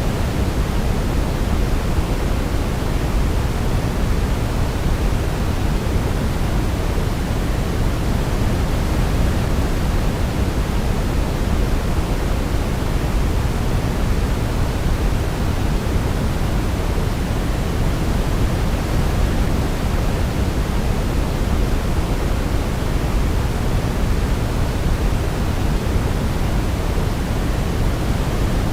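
Steady synthetic noise for baby sleep, deep and even like pink or brown noise, strongest in the low end and unchanging throughout.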